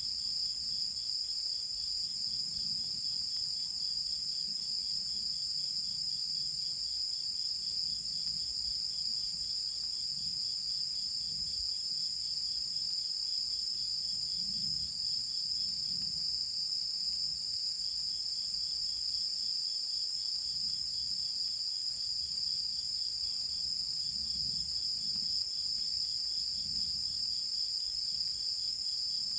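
Chorus of night insects: a steady, high, unbroken trill, with a lower, rapidly pulsing chirp over it that stops for a few seconds about halfway and then resumes.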